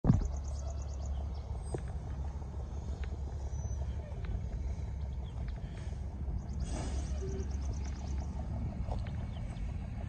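Birds chirping, with rapid high trills near the start and again about seven seconds in, over a steady low rumble.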